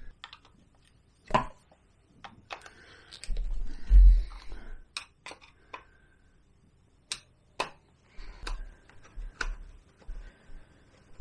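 Scattered sharp clicks and light knocks of hand tools and metal parts being handled during scooter engine disassembly, with one heavier thump about four seconds in.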